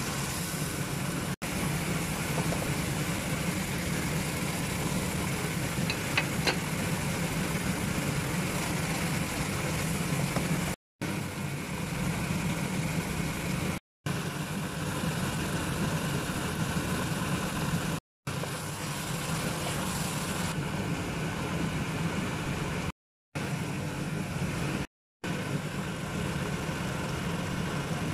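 Chilli paste frying and bubbling in a wok, a steady sizzling hiss over a low hum, with a couple of short clicks about six seconds in. The sound cuts out briefly several times.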